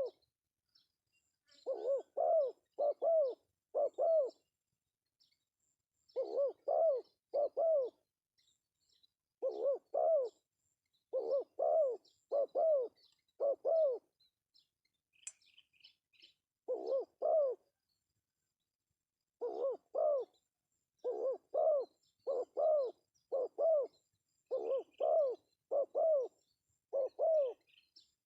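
Male spotted dove cooing: repeated phrases of two to five low coos, each note rising and falling in pitch, with pauses of a second or two between phrases. Faint chirps of small birds sound in the background.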